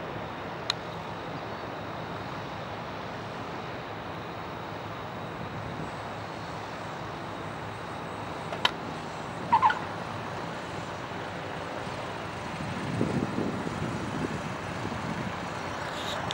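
Steady outdoor background noise like wind and distant traffic, with two sharp clicks and a short high chirp about ten seconds in. A low engine-like rumble swells briefly about three seconds before the end.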